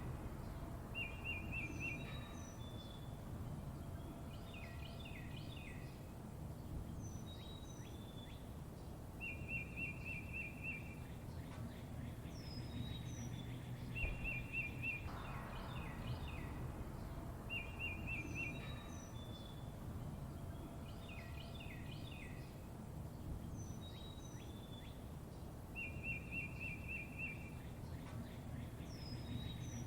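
Songbirds chirping and singing: short, even trills recur every few seconds, mixed with high chirps and quick clusters of notes. Underneath runs a steady low rumble of background noise.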